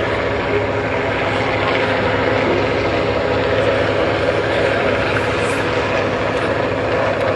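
Douglas DC-3's radial piston engines running steadily, a loud even drone with the propellers turning, just after landing.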